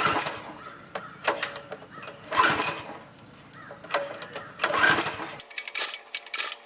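Small four-stroke pressure-washer engine being pull-started, about five recoil-starter pulls roughly a second apart, cranking without catching. The engine has sat for 11 years, and the no-start is put down to a clogged carburetor.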